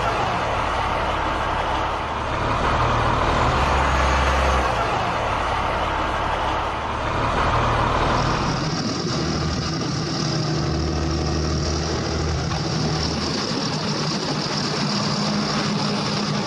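Large tractor's diesel engine running steadily. Its sound changes about eight and a half seconds in, when a higher hiss joins the engine note.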